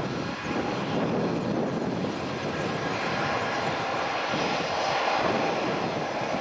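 Jet engines of a Boeing 737-800, its CFM56-7B turbofans, running with a steady, loud jet noise that shifts slightly in tone without letting up.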